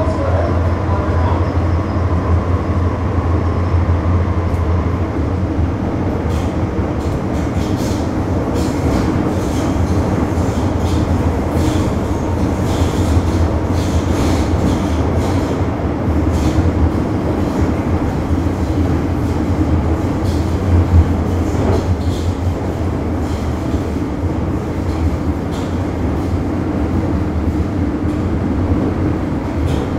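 Steady low rumble of a moving vehicle, with scattered faint clicks and rattles over it.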